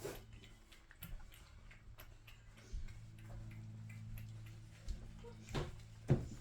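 Cats eating wet food from plates, their chewing and licking making small irregular clicks, with two louder knocks near the end. A steady low hum runs underneath.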